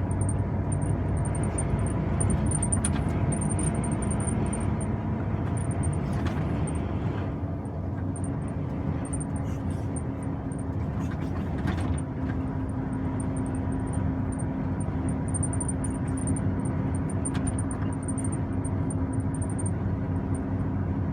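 Heavy truck running on the road: a steady low engine drone with road noise, its engine note shifting slightly about seven seconds in.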